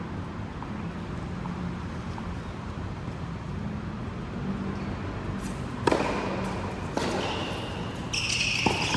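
Indoor racket-sport play over steady hall noise: two sharp racket hits about a second apart, then high squeaking near the end.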